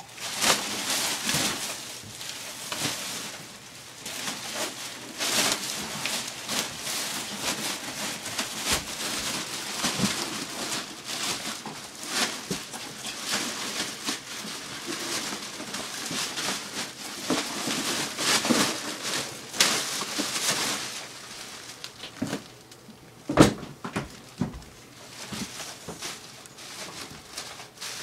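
Irregular scraping and rustling of old linoleum flooring being pulled up and broken into chunks, with one sharp knock a little over 23 seconds in.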